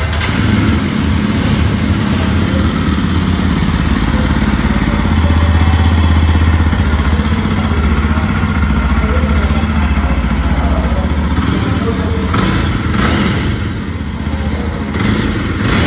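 Yezdi motorcycle's single-cylinder engine and exhaust running steadily, with a deep, even exhaust note that swells for a couple of seconds about a third of the way in. A few short knocks come near the end.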